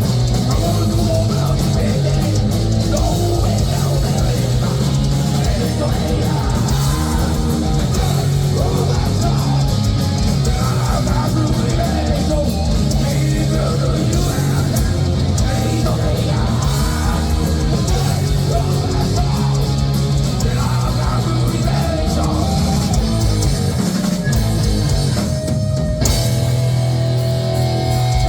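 Heavy metal band playing live: distorted electric guitars, bass and drums at full volume, without a break.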